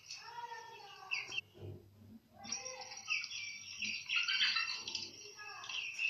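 Bird chirping and twittering: short, high, quick calls after a brief lull, thickest in the second half.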